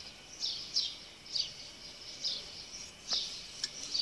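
A small bird chirping over and over: short, high, slightly falling chirps, repeating irregularly about every half second.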